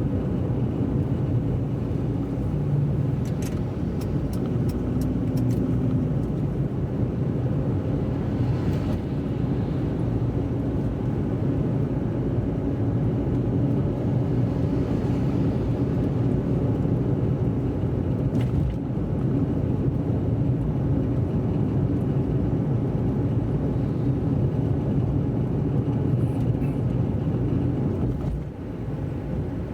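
Car driving on wet roads: a steady low rumble of engine and tyre noise, with a few faint ticks and a brief dip in level near the end.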